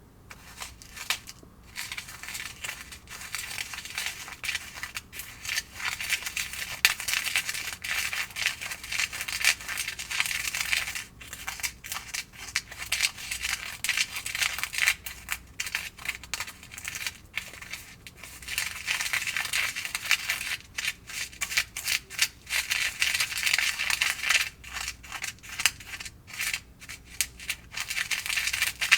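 Small plastic spoon scraping and clicking quickly in a plastic tray, working a DIY candy kit's powder mix. The scratchy scraping goes on with short pauses about eleven and eighteen seconds in.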